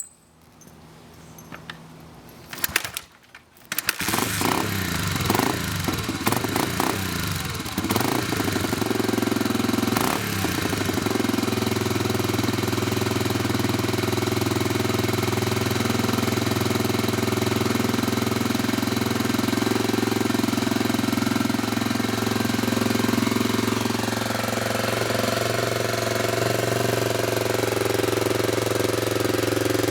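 Cold start of a 1983 Honda XL250R's single-cylinder four-stroke engine on choke. A couple of sharp thumps, then it catches about four seconds in, runs unevenly for several seconds, and settles into a steady idle whose note shifts slightly past the twenty-second mark.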